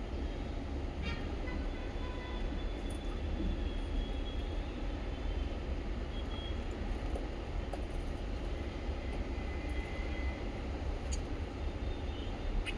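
A steady low rumble with a few faint, scattered bird chirps.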